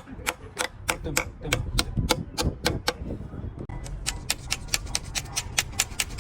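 Rapid, evenly spaced sharp taps, about three a second, then after a short break a faster run of about six a second.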